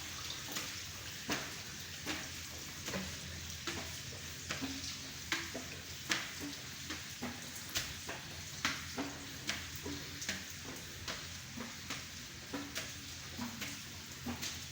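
Steady hiss of running water in a tunnel channel, with sharp splashing steps landing about every three-quarters of a second.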